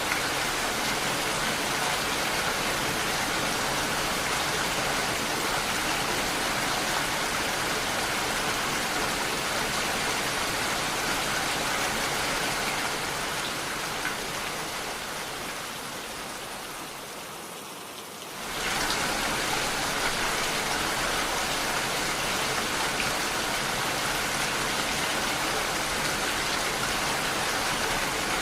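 Steady, dense rainfall hiss. Past the middle it fades down for a few seconds, then comes back suddenly at full strength.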